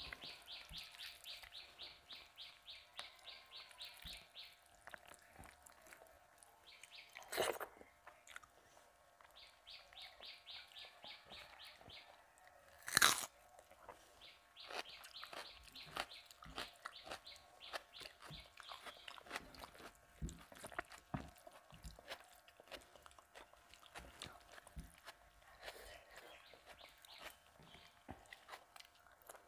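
Close-up eating sounds: wet chewing and soft smacking of rice and dal eaten by hand, with two loud crunches about a third and nearly halfway through. Behind them, runs of rapid, evenly repeated high chirps come and go, each lasting a few seconds.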